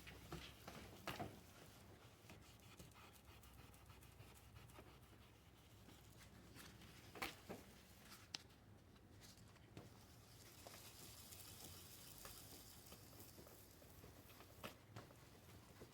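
Near silence: room tone with a few faint, isolated taps.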